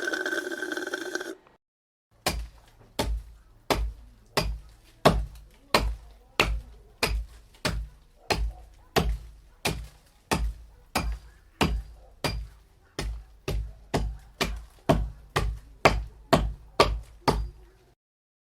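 A steady series of heavy knocks, a little more than one a second, each a sharp crack over a deep thud, after a brief pitched sound that stops about a second and a half in.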